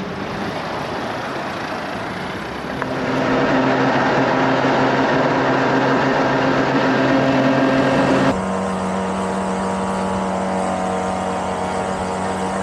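Small 50cc two-stroke moped engine running steadily under way, with road and wind rush. About three seconds in it gets louder, and just past eight seconds the engine note changes abruptly to a lower steady pitch.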